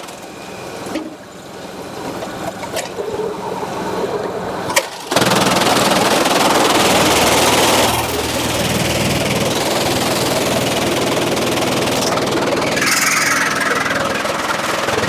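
Machinery running with an engine-like drone. The first seconds are quieter, with a few sharp knocks. About five seconds in it turns suddenly to a loud rushing noise for about three seconds, then settles into a steady drone.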